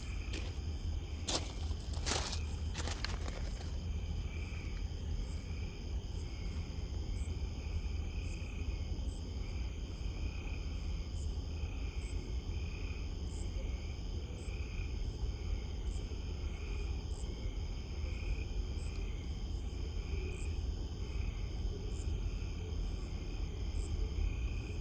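Night insect chorus of crickets and other insects calling steadily, with one pulsing call repeating about once a second over a steady low rumble. A few sharp clicks in the first three seconds.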